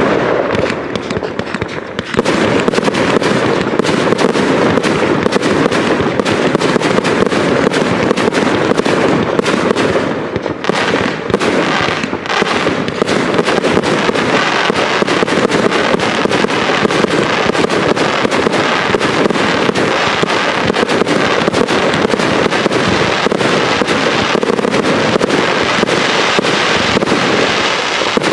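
Aerial fireworks display: a dense, continuous barrage of bangs and crackling, dipping briefly about ten seconds in before building again.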